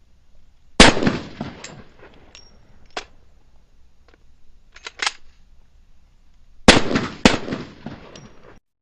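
Handgun shots: one about a second in, then two in quick succession near the end, each trailing off in echo. Lighter metallic clicks of gun handling sound in between.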